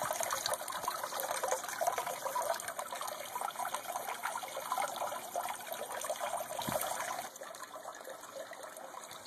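Water trickling and splashing steadily down through a rocker box fountain, pumped up into the hopper by a small electric pump and spilling into a catch tub; a little softer from about seven seconds in.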